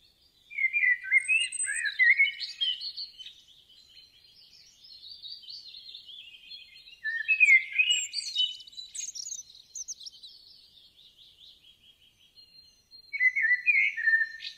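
Birds singing: quick chirping and warbling phrases in three bouts, about half a second in, around seven seconds in, and again near the end.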